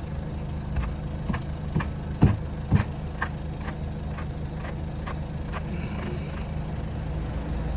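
Car engine idling steadily after a cold start, with a run of short sharp knocks about twice a second over it, the loudest two a little over two seconds in.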